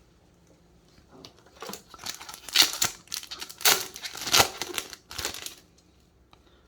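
Foil wrapper of a Yu-Gi-Oh OCG booster pack crinkling and tearing as it is opened, a run of rustles lasting about four seconds in the middle.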